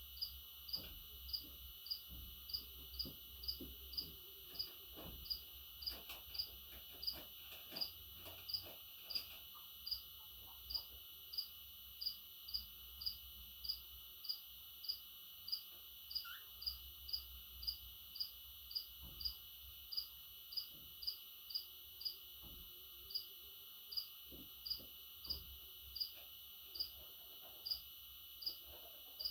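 Evenly spaced short, high chirps, about three every two seconds, over a steady high hiss: an insect, most likely a cricket, chirping.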